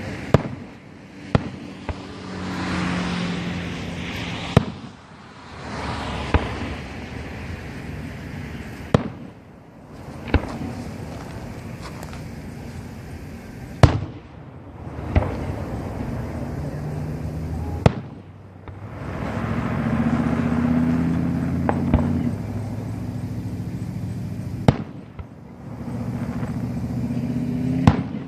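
Professional aerial fireworks display: about a dozen sharp shell bursts spaced irregularly a second to several seconds apart, with swells of hissing crackle between them. A low hum sits underneath in places.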